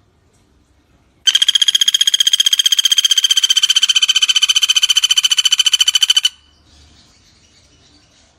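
A pelatuk bawang woodpecker giving one long, loud rattling trill of about five seconds: rapid even notes, roughly a dozen a second, on a nearly steady high pitch. It starts about a second in and cuts off suddenly.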